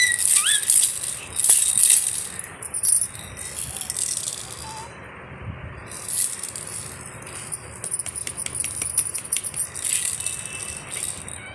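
Rattling, shaken in irregular bursts, with a short high squeal right at the start.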